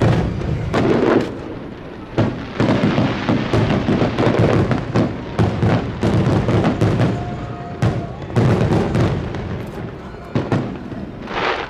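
Aerial fireworks going off in a dense barrage: booms and crackling shell bursts in quick succession, with brief lulls about two seconds in and near the end.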